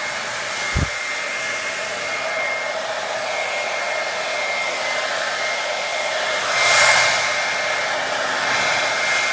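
SweetLF 1875W ionic hair dryer running steadily: a rush of air with a thin steady whine. A brief low thump comes about a second in, and the airflow swells louder for a moment about seven seconds in.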